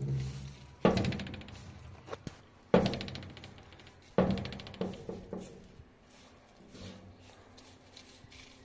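Three heavy knocks about a second and a half apart, each dying away with a short rattle, then a few fainter knocks.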